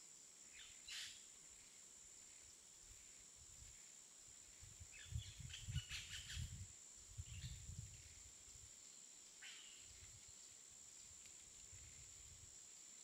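Faint outdoor nature ambience: a few short bird chirps, about a second in, in a cluster near the middle and once more later, over a steady high hiss with soft low rumbles in the middle.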